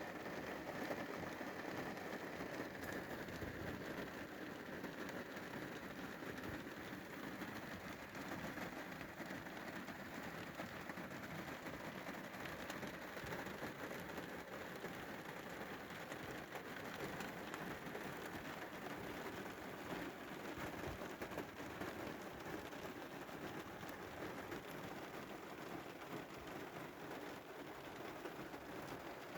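Steady rain falling, a continuous hiss peppered with the small ticks of individual drops.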